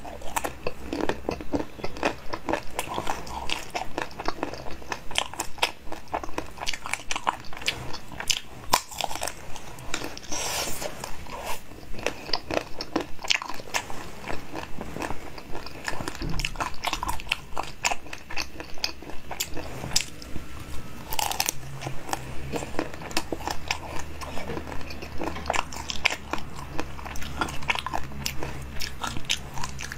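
A person biting and chewing a crunchy blue food, a dense run of crisp crunches.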